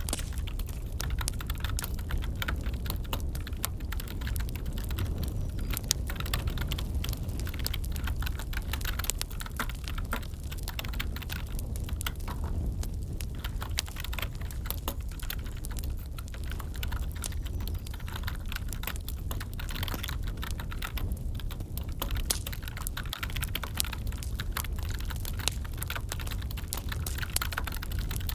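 Typing on a computer keyboard, a dense, irregular run of key clicks, over the steady low rumble and crackle of a wood fire.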